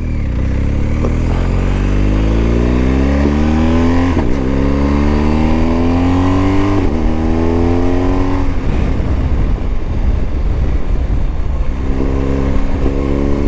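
BMW motorcycle engine accelerating up through the gears: its pitch rises, drops back at a gear change about four seconds in and again about seven seconds in, then holds steadier while cruising before rising again near the end.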